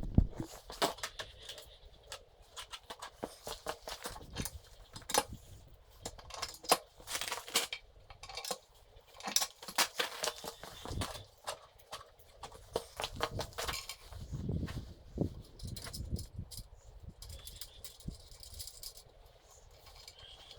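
Irregular light clinks, taps and rattles of hand tools and small metal hardware being handled, with no steady machine running.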